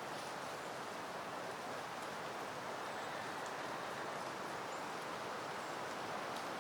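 Steady wind rustling through peony foliage and blooms, an even, unbroken rush with no gusts, with a few faint, brief high chirps.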